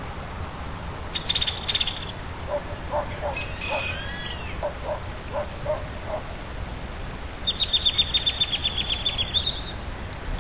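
Birds calling over a steady low background noise: a short, fast series of high chirps about a second in, then a run of lower repeated notes with a brief whistled call among them, and near the end a longer, fast trill of high chirps lasting about two seconds.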